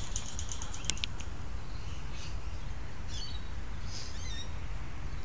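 Birds chirping a few times in short, wavering high calls over a steady low rumble. A quick run of faint ticks and two sharp clicks come about a second in.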